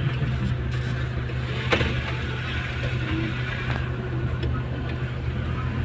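An engine running steadily at a low, even hum, with a single sharp click about 1.7 seconds in.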